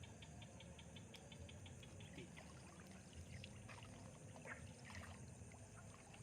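Near silence: faint water trickling and dripping, with a quick run of soft ticks in the first two seconds and a few scattered clicks after.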